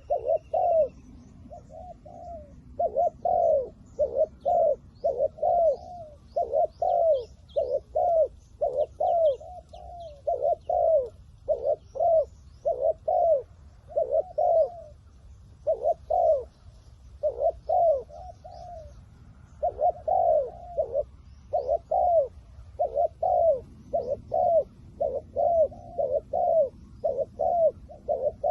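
Spotted doves cooing: a continuous series of short, low coos in quick groups with brief pauses between them.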